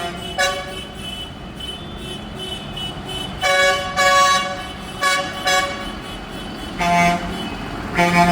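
Vehicle horns on passing tractors tooting in several short blasts of varying length, over a steady low hum.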